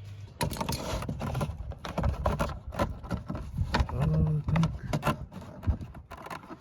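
Rapid, irregular clicking, scraping and rustling of hands working wiring through a pickup truck's plastic door trim.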